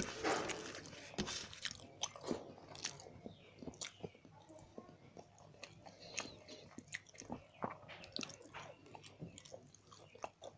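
A person chewing and biting food close to the microphone: irregular wet mouth clicks and smacks with some crunching.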